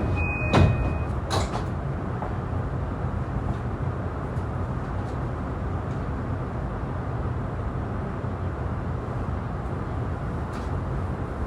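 The door-closing chime of a JR East E235-1000 series train beeps for its last time, then the sliding doors thud shut about half a second in, with a second knock soon after. A steady low rumble of the train car follows.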